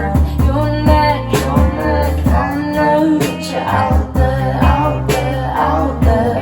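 Live band music: a rock song played on drums, bass and guitar, with regular drum hits.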